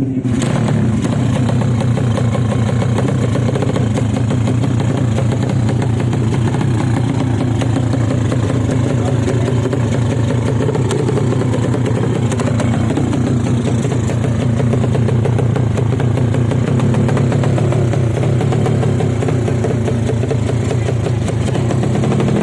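A motorcycle engine running steadily at an even pitch for the whole stretch, with no revving.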